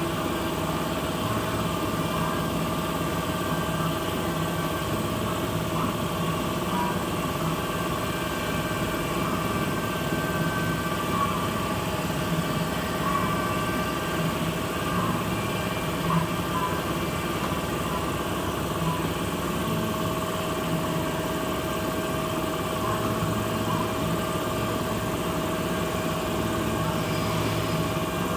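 Kiddie train ride running, its motor giving a steady, even hum.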